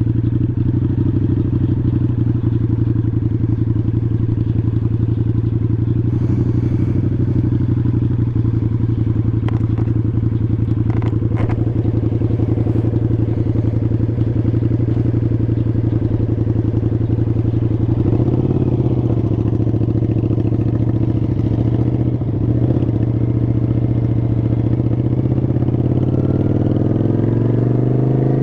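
Motorcycle engine running steadily at cruising speed, heard from the rider's seat; near the end its pitch rises as it speeds up.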